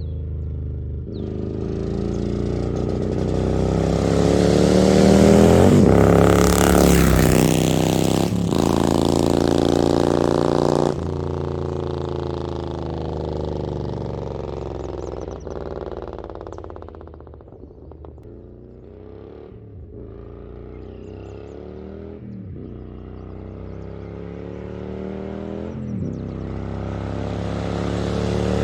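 Harley-Davidson Milwaukee-Eight V-twin with an SS 475 cam and Mutazu 2.0 megaphone slip-on mufflers, accelerating hard with the pitch climbing and breaking at a few gear shifts. About eleven seconds in the throttle comes off and the engine falls away to a lower note, then it builds again near the end.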